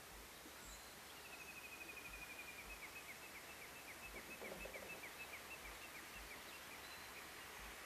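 Faint bird song: a quick high trill, then a run of short falling notes about three a second, over quiet outdoor background.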